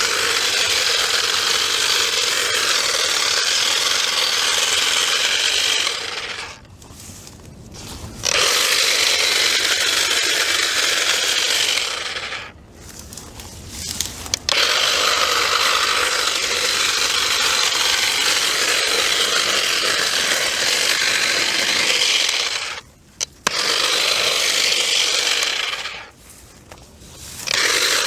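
Power cutting tool running as it cuts through weeds and brush, in long steady stretches broken by four short pauses.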